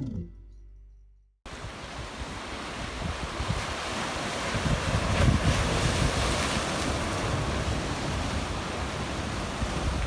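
Black Sea waves washing and splashing against a rocky shore, with wind buffeting the microphone. It starts suddenly about a second and a half in and keeps going steadily.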